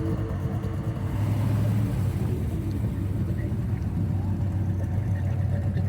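A car engine running steadily, a low even rumble.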